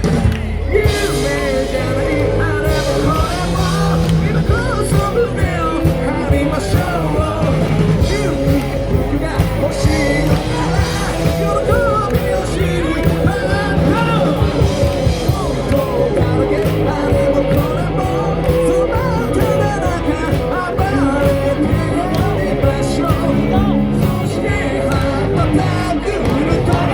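Live rock band playing a song with a lead vocal over the stage sound system.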